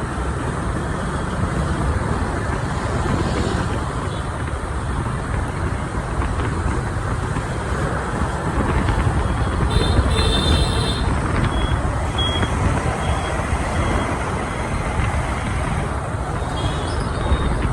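Steady motorbike and city street traffic noise heard from a moving scooter, with a few short high tones about ten to thirteen seconds in.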